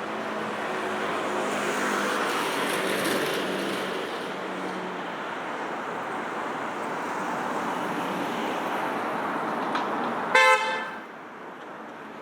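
Steady city road traffic passing, with a short, loud vehicle horn toot about ten seconds in, the loudest sound, after which the traffic noise falls away.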